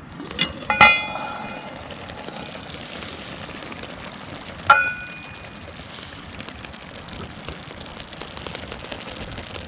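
Metal clanks with a brief ringing tone as the Dutch oven's lid is lifted to check the hotpot: two knocks close together, then a single clank a few seconds later, over a steady hiss.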